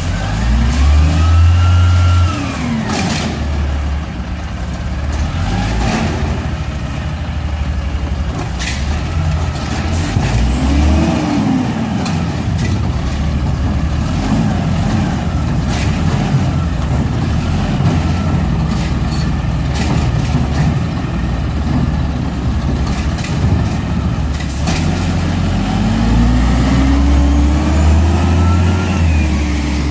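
Garbage truck engine running and revving up and falling back several times, a whine rising and falling along with it, with short sharp noises scattered throughout.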